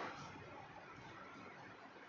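Faint steady background hiss: room tone.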